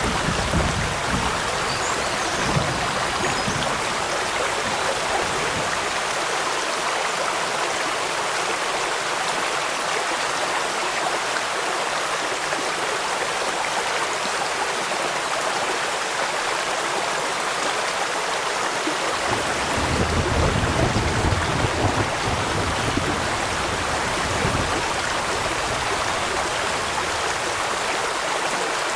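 Steady rushing of flowing water with rain falling, an even noise with no pauses. A deeper low rumble swells in the first few seconds and again about two-thirds of the way in.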